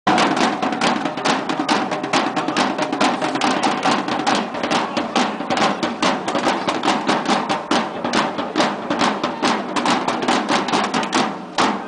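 Street drum band playing a fast, driving beat on snare and bass drums, with strokes coming about four to five times a second.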